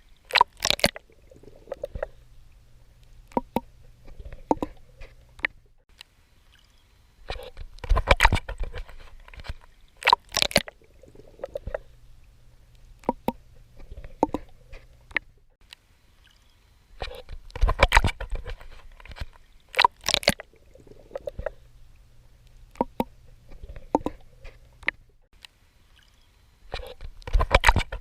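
Swimming strokes splashing in water. Clusters of sharp splashes come about every nine to ten seconds, with softer sloshing and a low hum in the quieter stretches between.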